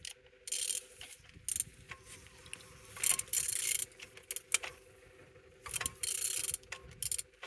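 Used engine being turned over by hand with a ratchet wrench: repeated bursts of ratchet rasping and metallic clicks as the crankshaft is rotated. The engine turns freely, the sign that it is not seized.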